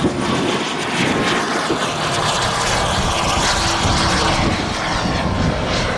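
Giant-scale radio-control model airplane's engine and propeller running steadily.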